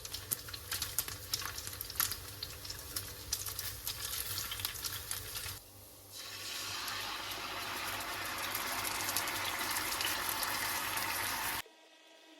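Food frying in a pan, crackling and spitting, then after a short break a steady sizzling hiss that cuts off abruptly near the end.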